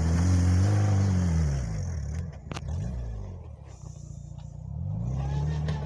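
Homemade mini tractor's engine running: its pitch rises and then falls away about a second and a half in, it runs low and quiet for a few seconds, then it picks up again near the end.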